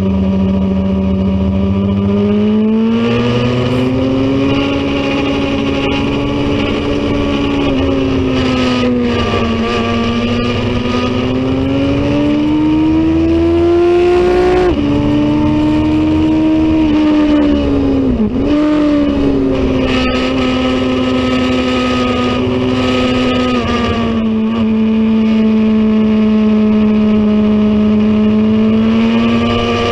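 Racing motorcycle engine running hard at high revs under race conditions. Its note climbs slowly, drops suddenly about fifteen seconds in, dips sharply and recovers a few seconds later, then holds fairly steady.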